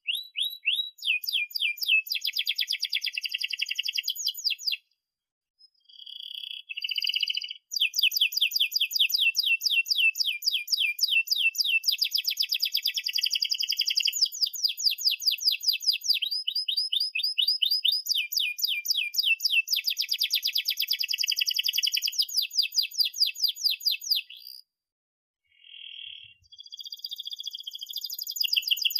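Domestic canary singing a long song of rapid trills and fast repeated chirps, high-pitched, with two short breaks, about five seconds in and again near the end.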